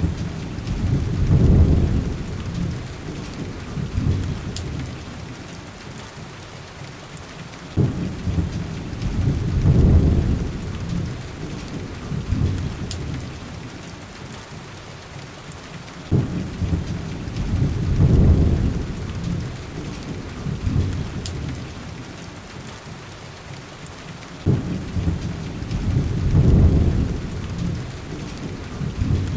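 Steady heavy rain with rolling thunder that comes back four times, about every eight seconds. Each roll starts with a sharp crack, swells into a deep rumble and dies away over several seconds, repeating so evenly that it sounds like a looped recording.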